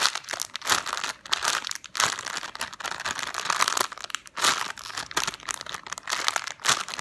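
Plastic packaging crinkling, an irregular crackle throughout, as a squishy toy is handled in it.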